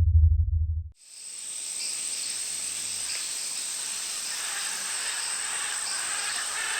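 A low rumble cuts off about a second in, then a steady rainforest insect chorus fades in: an even hiss with one continuous high-pitched whine.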